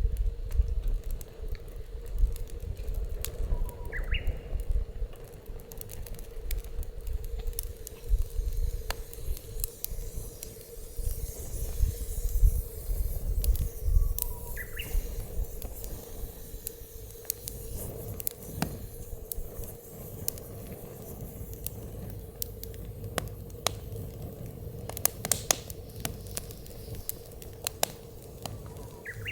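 Wood fire crackling and popping in a Snow Peak Takibi fire pit LL, with irregular sharp snaps throughout. Wind rumbles on the microphone, strongest in the first half, and two short rising chirps come about 4 and 15 seconds in.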